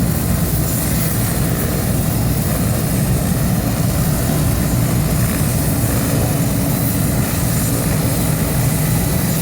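Air ambulance helicopter running, a loud steady rotor and engine noise.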